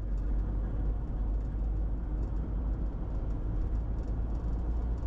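Car driving, heard from inside the cabin: a steady low road-and-engine rumble with an even hiss above it.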